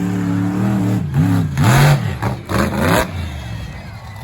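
Monster truck engine running steadily, then revving hard up and down several times in quick succession, easing off near the end.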